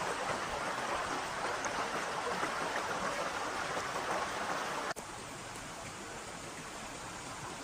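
Steady rushing noise of running water. It drops abruptly to a quieter level about five seconds in.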